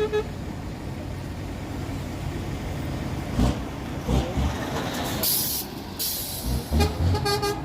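Semi-truck tractor units running, with a loud hiss of compressed air about five seconds in. An air horn blows briefly at the start and again in quick pulses near the end.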